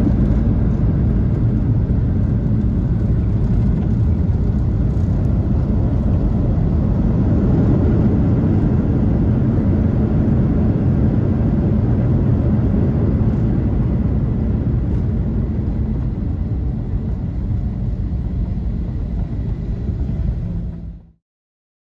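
Steady low rumble of a Boeing 737-800 in motion, heard from inside the passenger cabin: the CFM56 engines and the airflow over the fuselage, with a faint steady whine above it. It eases slightly, then cuts off abruptly near the end.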